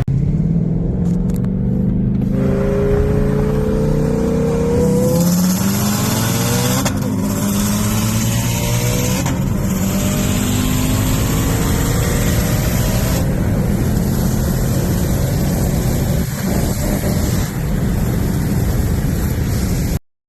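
A car engine pulling hard at full throttle, its pitch climbing and dropping back at each upshift several times in the first ten seconds, then running more steadily. The sound cuts off suddenly near the end.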